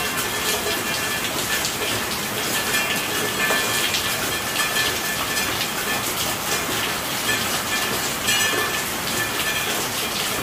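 Steady rain falling: an even hiss with many small drop ticks through it.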